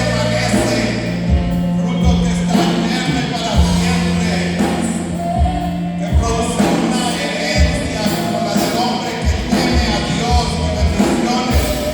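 Worship band music with singing over a steady drum beat and held bass notes.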